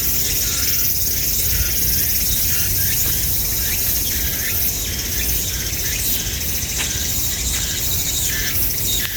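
Steady high-pitched buzzing of summer insects, with short bird calls repeating every half second to a second over it and a low rumble underneath.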